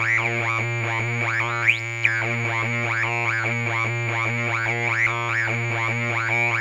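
Weird Sound Generator DIY synthesizer running a patch: a steady low drone under a rapid stream of repeating pitched pulses, several a second, with gliding chirps sweeping up and down.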